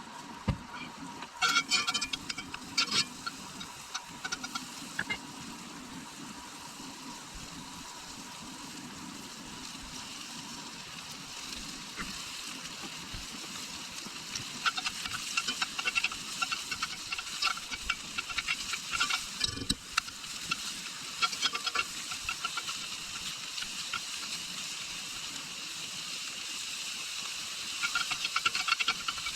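Hot Italian sausage sizzling and crackling as it fries on a stovetop, stirred now and then, with denser bouts of crackle and scrape when it is moved.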